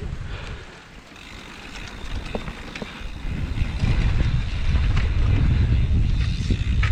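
Wind buffeting the microphone over the rumble and rattle of a mountain bike rolling along a rough trail, with scattered clicks; the rumble builds from about three seconds in.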